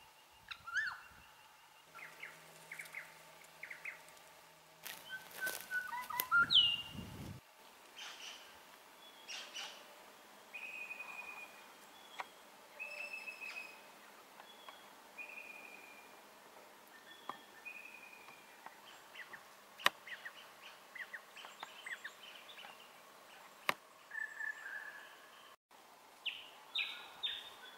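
Wild birds calling in open bush, with a short falling whistle repeated about every two seconds among scattered chirps. A brief louder burst of noise comes about six seconds in.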